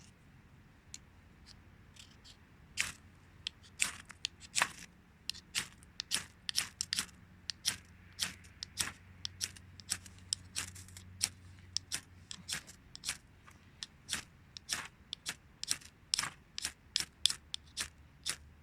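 Ferrocerium fire steel of a Ganzo G8012 survival knife being struck over and over to throw sparks onto tinder: faint scrapes at first, then quick, sharp, rasping strikes about two or three a second from about three seconds in.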